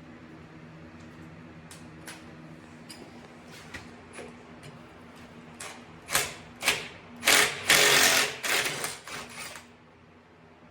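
Pneumatic tool run in a series of short, loud bursts, about six of them in the second half, with faint clicks from tool handling before it. This is the kind of work done in loosening bolts during transmission disassembly.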